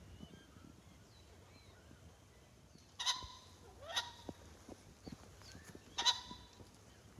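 A large game bird calling loudly: short, harsh, honking calls about 3, 4 and 6 seconds in, over faint small-bird chirps.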